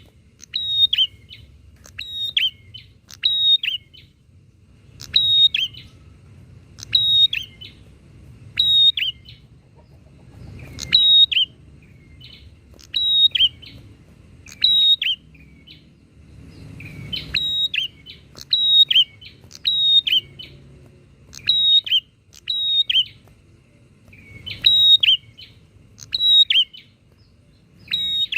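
Prinias (prenjak) calling back and forth, a long run of short, sharp chirping calls repeated about once a second, some notes coming in quick pairs.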